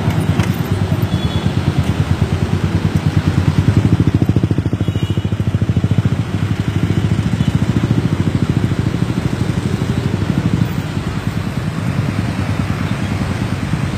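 A vehicle engine running steadily close by, a low, fast, even pulsing throb.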